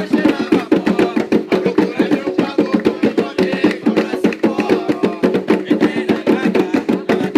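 Umbanda ritual music: hand drums beating a fast, even rhythm of several strokes a second over sustained pitched sound.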